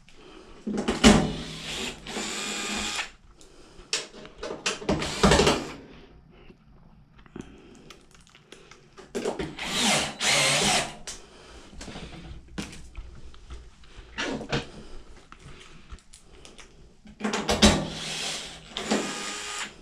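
Power drill driving screws in several short runs of a second or two, with small clicks and knocks between.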